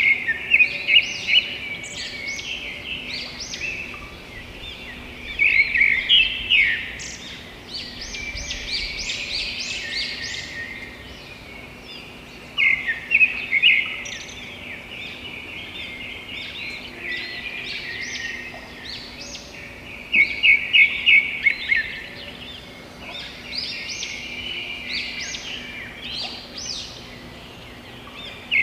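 Several birds singing and chirping at once, with a louder burst of quick repeated notes about every six to eight seconds.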